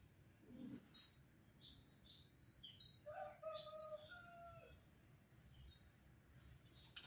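Near silence with faint, high bird chirps in the background, and a few short whistled notes in the middle.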